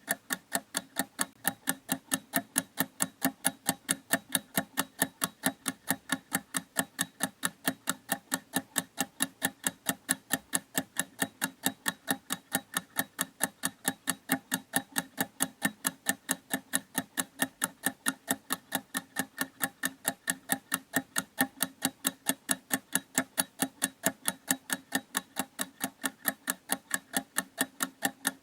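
Clock ticking steadily: quick, even ticks at about three a second.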